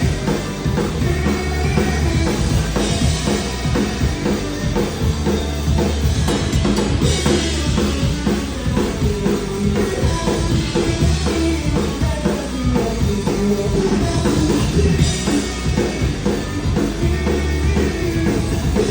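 Live rock band playing an instrumental passage: full drum kit with kick and snare driving a steady beat under electric guitars and bass, heard as a loud concert recording from the crowd.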